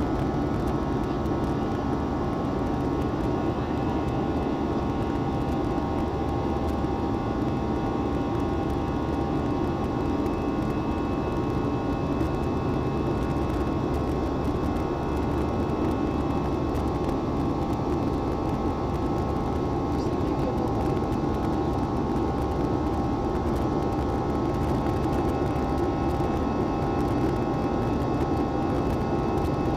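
Airliner cabin noise during the climb: a steady drone of jet engines and rushing air, with a constant whine of several steady tones.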